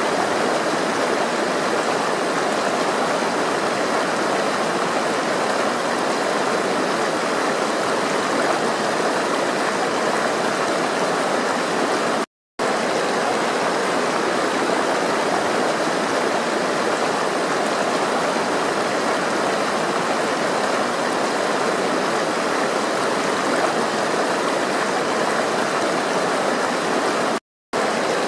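Water flowing steadily, a constant rushing of a stream, that cuts out to silence twice for a split second.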